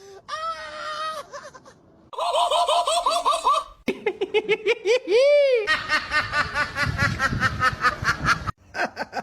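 Laughter-like vocal bursts in several short segments cut together: quick repeated 'ha-ha' pulses, one long call about five seconds in that rises and falls, then fast repeated pulses again.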